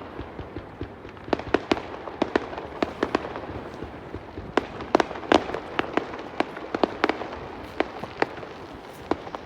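Fireworks going off: about twenty sharp bangs and pops at irregular intervals, some in quick pairs, over a steady hiss.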